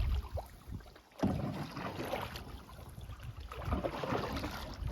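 A canoe being paddled: irregular paddle splashes and water sounds, with a low wind rumble on the microphone.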